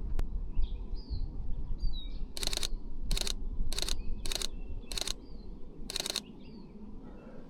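Six short bursts of rapid camera shutter clicks from a Sony A6700 shooting in continuous mode, spread over about four seconds from a little past two seconds in. Small birds chirp throughout, over low wind rumble on the microphone.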